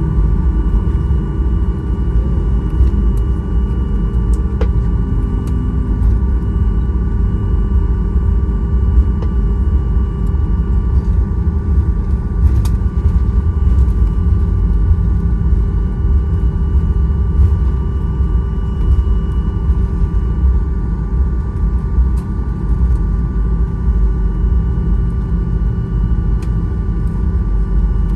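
Cabin noise inside a Boeing 737-800 taxiing on the ground: a steady, loud low rumble with a constant hum from the CFM56 engines, and a few faint clicks and knocks.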